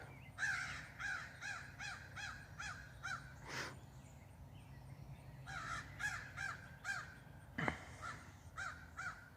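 Crows cawing in quick runs of harsh caws, about three a second, a long run at the start and another after a short pause, with a few more near the end. It is the loud, agitated calling of crows upset about something.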